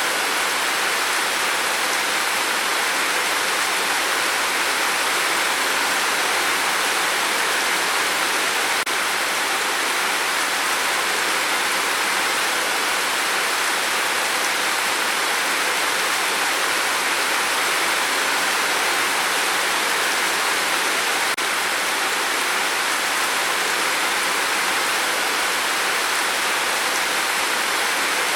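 Steady heavy rain on a tin roof: a dense, even hiss with no single drops standing out.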